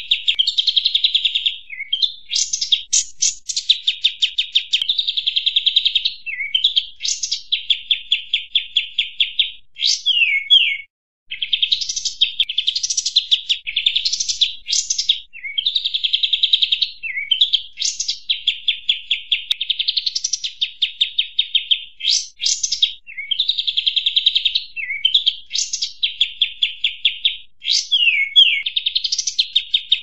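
Kapas tembak bird calls played as a lure recording: noisy chattering trills of rapid notes broken by quick upward sweeps, repeated phrase after phrase with a brief pause about eleven seconds in.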